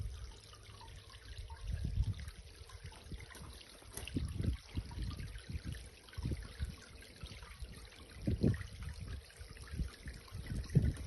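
Water from a small garden pond's cascade waterfall trickling and splashing into the pool, with an irregular gurgle over a steady hiss.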